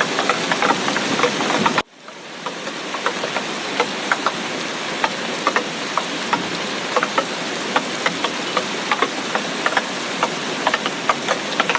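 Steady heavy tropical rain with many distinct close drops pattering. The sound cuts out abruptly about two seconds in and fades back up over about a second.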